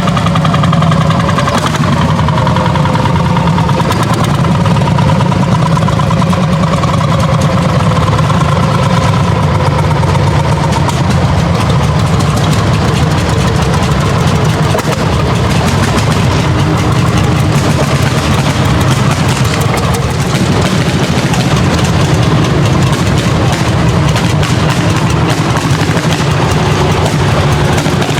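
Old tractor engine running loudly and steadily, with a faint tone above the rumble that wavers a little in pitch over the first several seconds.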